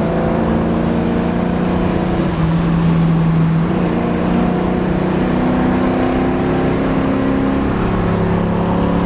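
1981 Camaro's 350 small-block V8 running hard under way, with a steady engine note that steps to a new pitch several times as the revs change.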